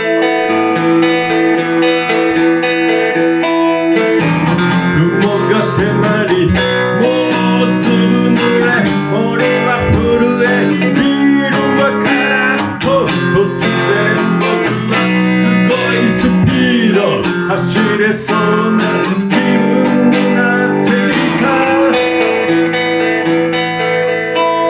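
Van Zandt Telecaster electric guitar through a Roland JC-120 amp, playing an instrumental break. Held chords give way about four seconds in to a lead line with string bends and vibrato, which settles back into chords a couple of seconds before the end.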